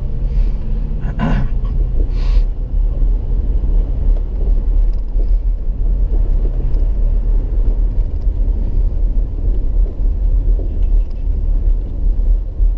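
Steady low engine and road rumble heard from inside a car as it drives, with two short sharp noises about one and two seconds in.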